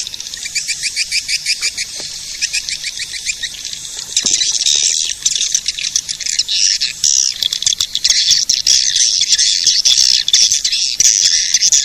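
Swiftlet-caller recording: dense twittering and chirping of swiftlets. A fast run of short, evenly spaced chirps in the first few seconds gives way to louder, thicker chattering about four seconds in.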